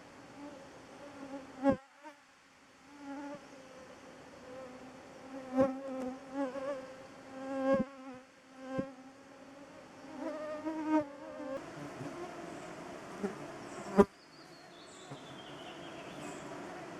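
Bloodsucking insects such as mosquitoes buzzing close to the microphone, their whine wavering in pitch and level as they fly near and away. Several sharp clicks cut through, the loudest about fourteen seconds in.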